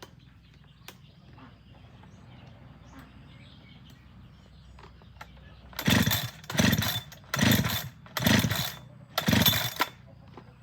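Two-stroke chainsaw's recoil starter pulled five times in quick succession, each pull a short burst of the engine being cranked over without firing: the saw won't start.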